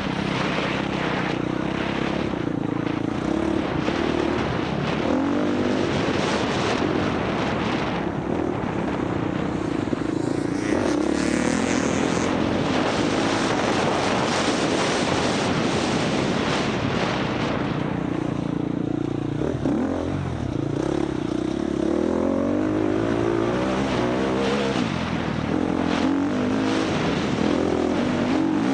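Four-stroke dirt bike engine running hard through an off-road race, revving up and falling back again and again with throttle and gear changes.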